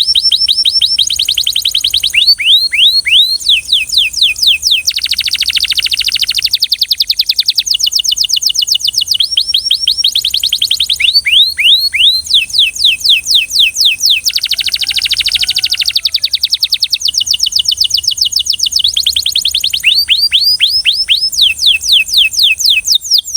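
Canary singing a continuous song of quick, repeated downward-sweeping notes in rapid runs, broken twice by longer buzzing rolls.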